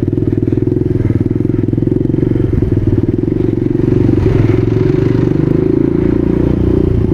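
Small dual-sport motorcycle's engine running with a steady, rapid pulsing, swelling slightly about four seconds in.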